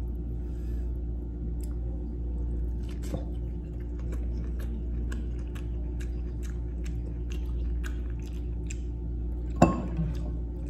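A person chewing food close to the microphone, with many small crunching and squishing clicks, and one sharp knock about nine and a half seconds in. A steady low hum runs underneath.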